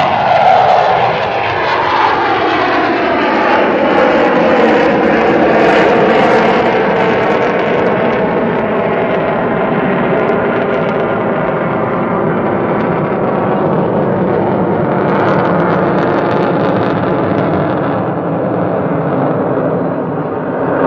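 Jet engine roar of Blue Angels F/A-18 Hornets flying past, the pitch sliding down in the first couple of seconds as they go by, then a long, loud, steady roar that swells again later on.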